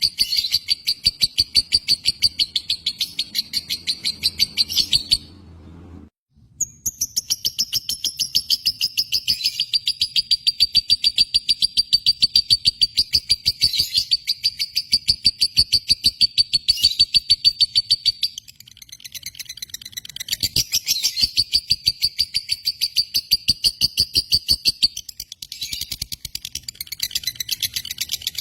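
Lovebird giving its long chattering song ('ngekek'): a fast, even string of sharp high notes, about ten a second, kept up for many seconds at a time. It stops briefly about five seconds in and then starts again. The long unbroken runs are what Indonesian keepers prize in a 'josan' bird.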